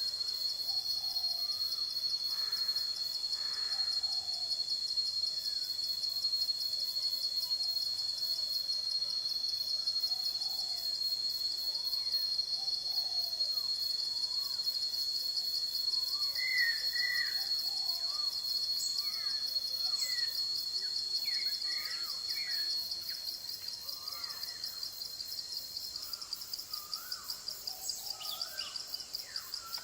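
Forest ambience: a steady, high-pitched insect chorus of crickets or cicadas drones on, with short bird calls scattered through it. The calls grow more frequent in the second half. Near the end one strand of the insect drone stops and the chorus becomes a little quieter.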